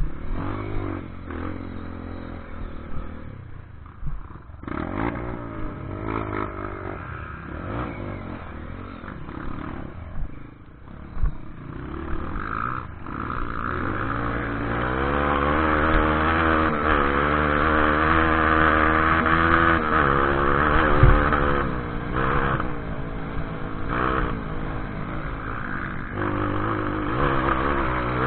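Off-road motorcycle engine running and revving, its pitch rising and falling with the throttle. It grows louder from about halfway through, with some rattling and clatter.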